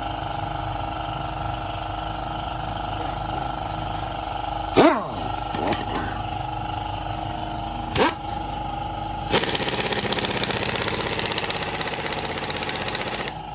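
A high-pressure jet hissing: two short blasts about five and eight seconds in, with a few weaker spurts between them, then a longer blast of about four seconds that cuts off suddenly. A steady machine hum runs underneath.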